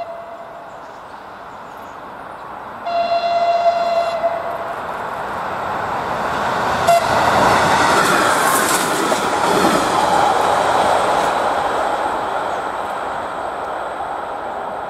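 Passenger train horn: the tail of one blast just at the start, then a second steady blast of under two seconds about three seconds in. Then the train passes close by, its wheels clacking over the rails with a sharp click as it reaches the crossing. The rumble swells and fades away.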